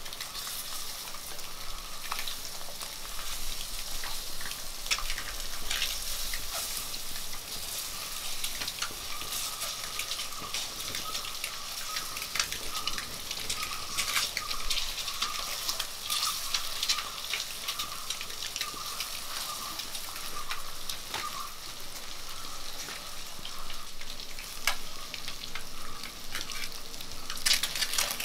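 Boiled egg halves frying in hot oil in an iron wok: a steady sizzle with frequent sharp pops of spattering oil, and the scrape of a wooden spatula against the pan as the eggs are turned.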